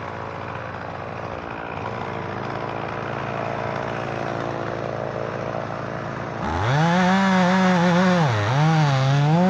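Two-stroke chainsaw revving up from idle to full throttle about two-thirds of the way in, its high whine dipping and recovering twice near the end. Before it, an engine runs steadily at a lower level.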